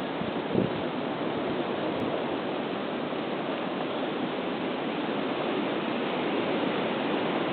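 Blizzard wind blowing hard and steadily, a dense rushing noise, with a short gust buffeting the microphone about half a second in.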